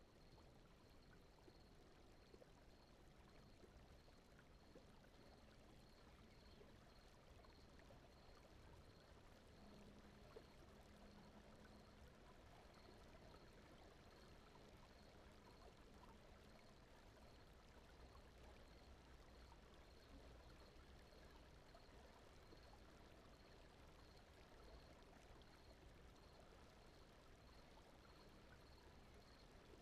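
Near silence: a faint, steady rushing noise bed of brown noise, heavier in the low end, with a faint high tick repeating at a regular pace.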